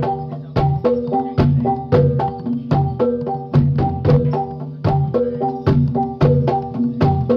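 Javanese gamelan music accompanying a Jathilan dance: a steady, repeating pattern of struck, ringing metal tones over drum strokes, about two to three strikes a second.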